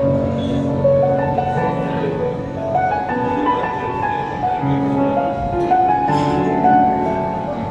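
Piano music: a slow melody over held chords.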